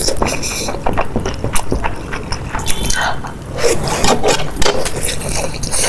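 Close-miked eating sounds: wet chewing and slurping with many small, quick mouth clicks and crackles.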